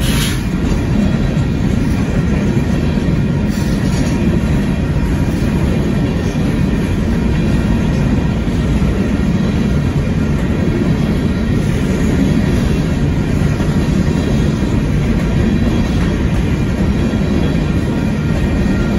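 Union Pacific gravel train's loaded freight cars rolling past close by: a steady, loud rumble of wheels on rail, with a faint thin high tone running over it.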